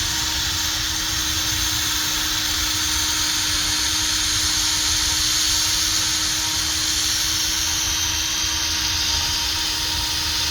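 Handheld power sander running steadily while wet-sanding a plastic headlight lens with 800-grit paper, a constant whir with a high hiss from the abrasive on the wet lens.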